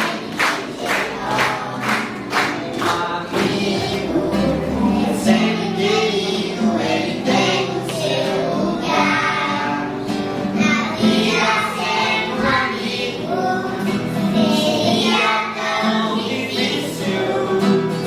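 A group of children singing a song together over a music backing, with a sharp, steady beat about twice a second in the first few seconds.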